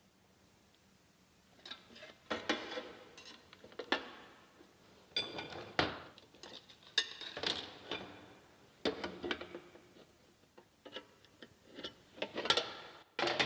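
Workshop handling noise: irregular clicks, knocks and clinks of small hard parts and tools being picked up and set down, a few with a brief metallic ring.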